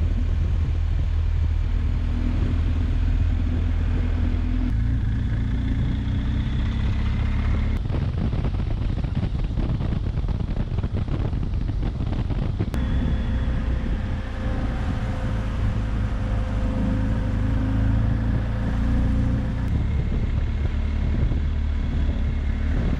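BMW R 1250 GS Adventure's boxer-twin engine running while riding, with steady wind rush. The engine note shifts pitch a few times, and the wind noise is roughest in the middle.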